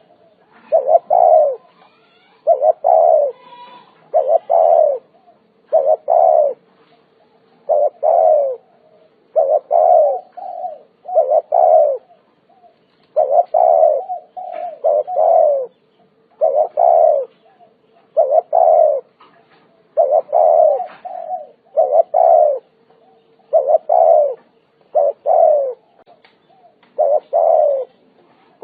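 Spotted dove cooing: a short phrase of two or three coos, repeated about every two seconds.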